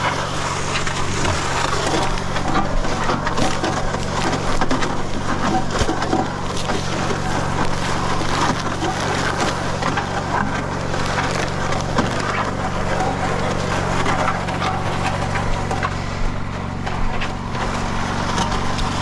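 Mud Mixer portable concrete mixer running steadily on its small motor, with a dense gritty crackle from bagged concrete and water being churned through its spiral auger.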